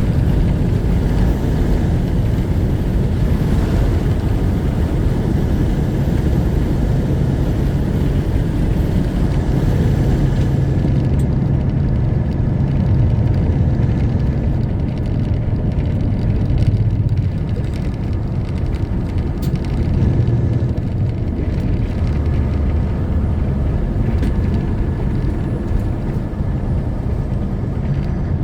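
Semi truck running down the road: a steady low rumble of the diesel engine with tyre and road noise, easing slightly and rising again about two-thirds of the way through.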